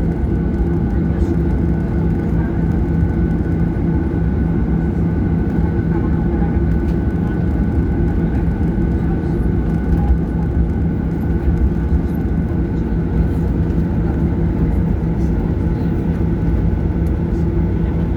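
Steady drone inside the cabin of a Boeing 737-800 with its CFM56-7B turbofan engines running. A few constant tones run through it, and it holds level throughout.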